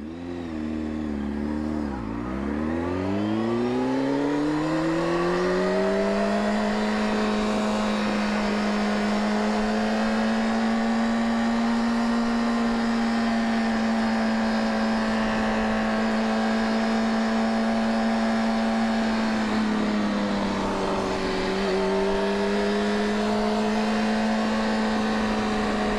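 Motorcycle engine pulling away from low revs about two seconds in, its pitch climbing over several seconds and then holding steady as the bike cruises. The revs dip briefly about twenty seconds in, then climb and hold again.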